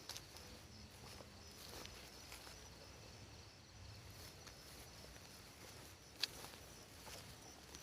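Quiet outdoor field ambience: faint rustling, a faint steady high tone, and one sharp click about six seconds in.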